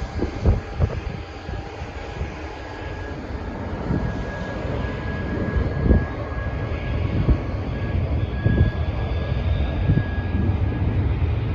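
RAF Airbus Voyager's jet engines on departure: a steady jet rumble with a thin high whine, slowly growing louder, with occasional short low thumps mixed in.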